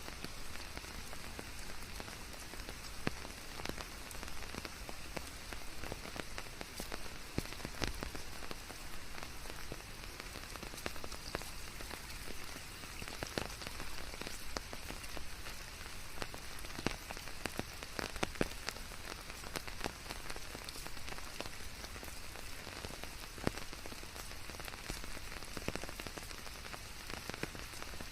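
Steady rain falling, with many individual drops ticking on surfaces over an even hiss of white noise.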